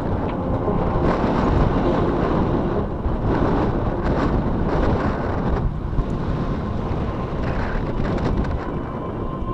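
Wind buffeting the microphone, a loud rushing noise that swells and eases in gusts.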